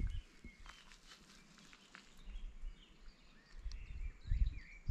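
Faint bird calls, short chirps, with low rumbling noise on the microphone growing in the last second or so.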